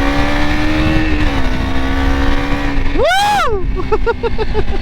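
KTM RC 200's single-cylinder four-stroke engine running at steady revs while riding, its pitch rising slightly and then dropping about a second in, with wind rumbling on the microphone. About three seconds in the rider gives a loud whoop that sweeps up and down.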